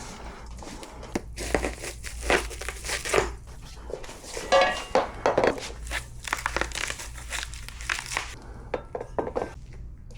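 Packaging crinkling and rustling in irregular bursts as a boxed motorcycle hitch carrier is unpacked.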